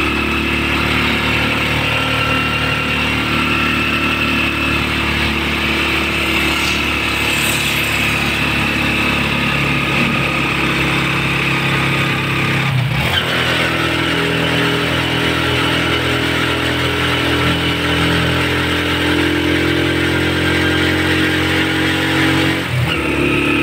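Motorcycle engine of a tricycle running steadily while under way, heard from the sidecar. It breaks briefly and changes pitch about thirteen seconds in, and again near the end.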